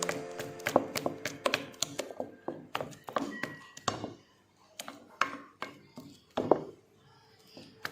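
Spoon knocking and tapping irregularly against a mixing bowl while thick chocolate cake batter is stirred, a few knocks a second with short pauses.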